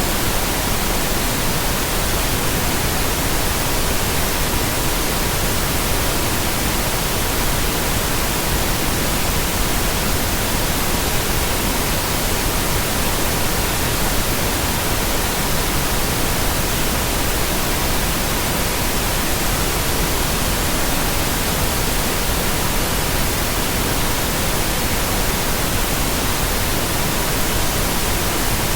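Steady pink noise, an even hiss from low to high, with a faint steady 963 Hz tone held through it.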